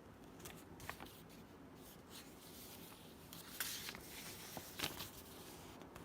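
Faint scattered clicks and rustles, as of something being handled at close range, with sharper ticks about one second in and around three and a half and five seconds in.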